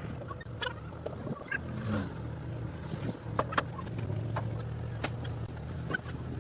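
A motor running with a steady low hum, with scattered clicks and knocks.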